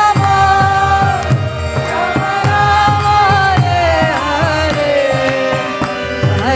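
Kirtan music: a gliding, ornamented sung melody of a devotional chant over a steady held drone, with a hand drum keeping an even beat of about two strokes a second.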